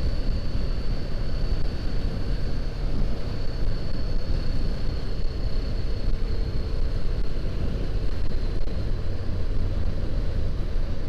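Honda CBR500R's parallel-twin engine running steadily under way, mixed with wind rushing over the action camera's microphone. A thin steady high whine sits above the engine and wind noise.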